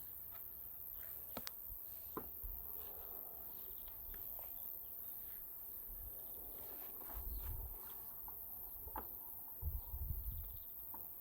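Outdoor ambience: faint insect chirping, with scattered clicks and low rumbles about 7 and 10 seconds in.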